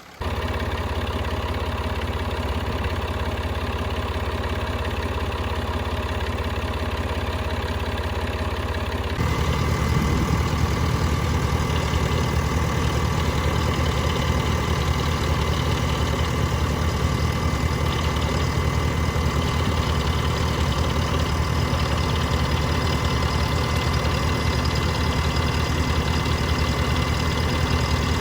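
A motor-vehicle engine idling steadily. About nine seconds in it gets louder and heavier, as if a second engine joins or the first one changes.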